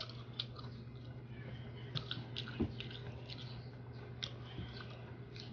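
Faint, wet mouth clicks of chewing soft mango slices, scattered and irregular, over a low steady hum.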